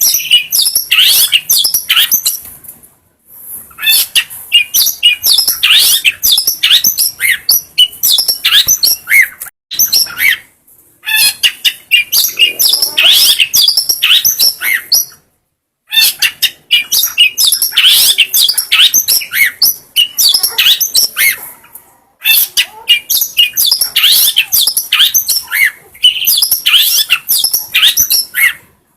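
Long-tailed shrike (cendet) singing: bouts of fast, high chirps and trills a few seconds long, broken by short pauses.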